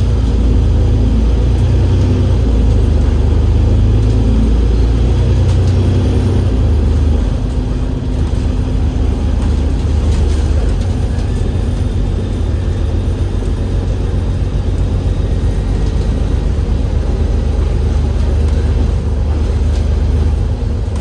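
Cummins L9 diesel engine of an Enviro500 MMC double-decker bus running under way through its ZF Ecolife automatic gearbox, a steady low drone that steps down slightly about seven seconds in.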